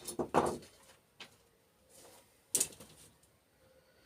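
A few knocks and clatters of scrap parts from a dismantled microwave being handled and set down, one cluster at the start and single sharp knocks about a second and two and a half seconds in.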